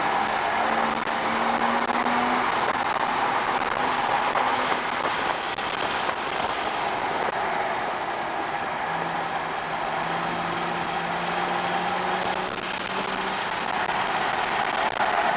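2007 Porsche Cayman S's 3.4-litre flat-six heard from inside the cabin at track speed, over a steady rush of wind and road noise. The engine note drops about nine seconds in, then climbs slowly.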